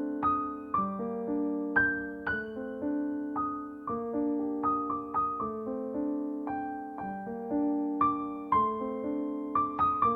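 Slow, gentle piano music: single struck notes in a melody over held lower notes, about two notes a second.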